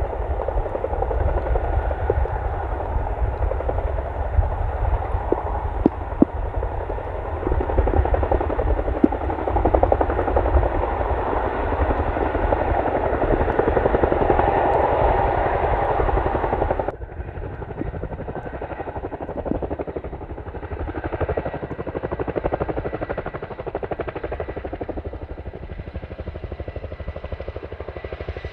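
Boeing CH-47D Chinook tandem-rotor helicopter, its rotor blades chopping in a fast, steady beat. About two-thirds of the way in the sound cuts off abruptly to a quieter, lower rumble.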